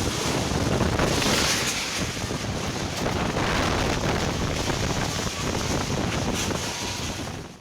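Strong storm wind rushing and gusting, buffeting the microphone with a loud, steady roar that swells twice. It cuts off suddenly near the end.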